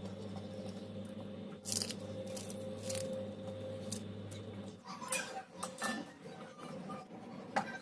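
Scattered clinks and taps of kitchen utensils and dishes being handled, over a steady low hum that stops a little under five seconds in.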